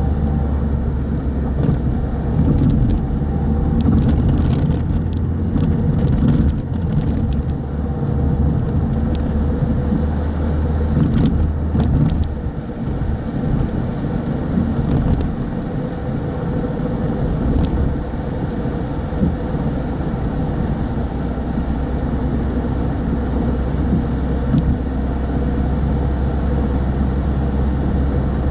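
Car driving on a wet road: a steady engine and road rumble, with scattered light ticks during roughly the first twelve seconds.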